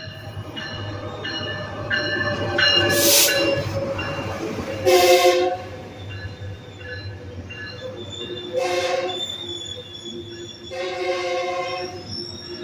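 Metrolink commuter train sounding its horn in several blasts over the rumble of the train, with steel wheels squealing on the rails between the blasts.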